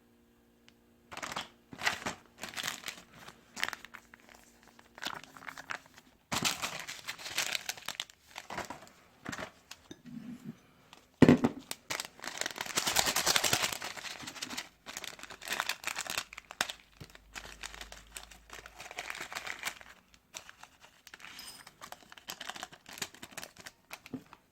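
Plastic instant-ramen packaging crinkling and being torn open. It comes in bursts of sharp crackles, with one loud snap about eleven seconds in.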